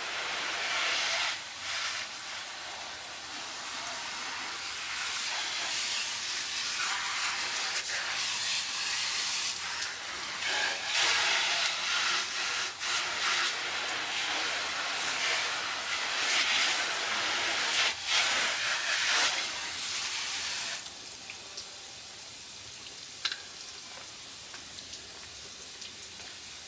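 Water spraying from a hose, a steady hiss that swells and eases as the spray moves, then shuts off about three-quarters of the way through, leaving a faint background hiss.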